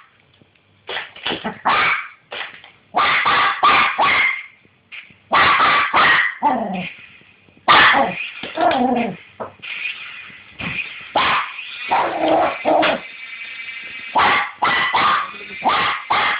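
A dog barking in quick runs of several barks, with short pauses between runs; a few of the barks are yelps that slide down in pitch.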